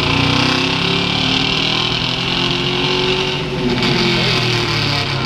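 Turbo-diesel truck engine running hard under load on a chassis dyno, with a steady engine drone and a high hiss over it. The hiss drops away about three and a half seconds in as the run eases off.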